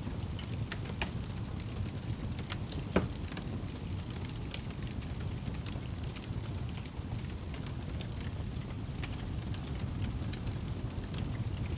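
Crackling fire, with scattered sharp pops and snaps and one louder pop about three seconds in, over a steady low rushing of rain.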